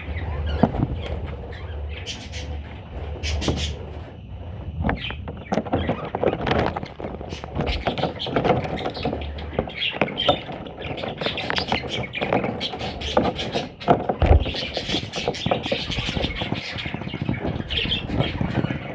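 Pet budgerigars chattering and chirping, with many short clicks and taps mixed in.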